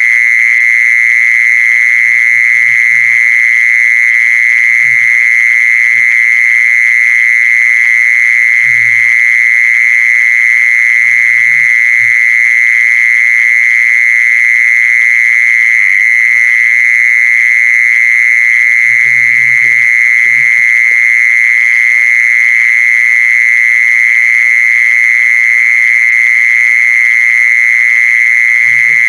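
Mole cricket call: one continuous, loud trill pitched around 2 kHz that holds steady without a break. A few faint low knocks sound under it now and then.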